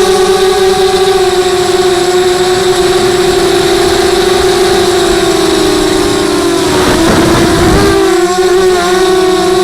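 Electric motors and propellers of a 250-size FPV racing quadcopter whining steadily in flight, the pitch wavering slightly with throttle. About seven seconds in, a rushing noise lasts about a second while the pitch dips.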